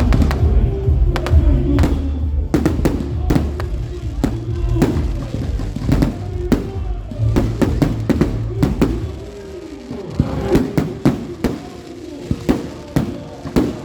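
Music playing, with many sharp pops and cracks of fireworks going off throughout. The music's deep bass stops about nine seconds in, while the popping goes on.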